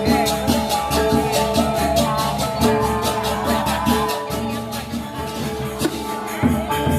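Balinese gamelan playing: sustained ringing metallic tones over a fast, even pulse of sharp cymbal-like strikes.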